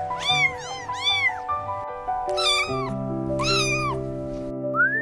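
A kitten meowing about five times in short rising-and-falling mews, three in quick succession and then two more spaced out, over background music with sustained notes.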